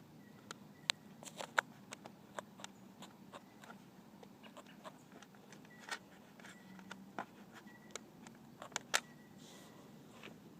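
Irregular sharp clicks and light knocks of tools and parts being handled while a dirt bike's seat is unbolted and lifted off.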